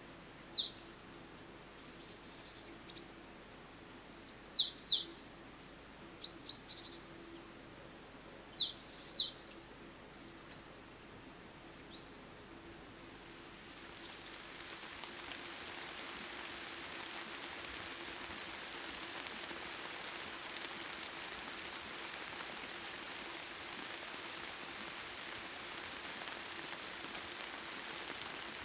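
A small bird's sharp, high chirps, mostly in pairs, every couple of seconds over quiet countryside ambience. They stop about halfway through, and a steady, even hiss swells in and holds.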